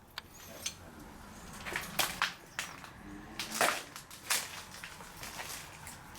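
Footsteps crunching and scraping over debris on the floor, an irregular series of short crunches about every half second.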